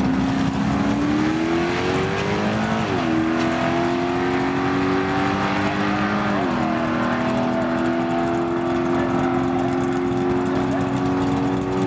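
351 Cleveland V8 of a Ford XB Falcon GT with a Crane F246 cam, at full throttle on a drag-strip launch. The pitch climbs, drops sharply at an upshift about three seconds in, climbs again to a second upshift about six and a half seconds in, then holds nearly level as the car pulls away.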